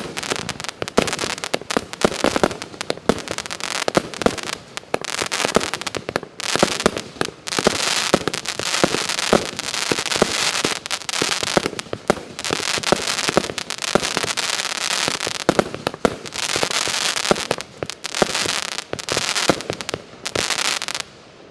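150-shot firework cake firing a rapid, continuous string of shots with crackling bursts. The barrage stops near the end.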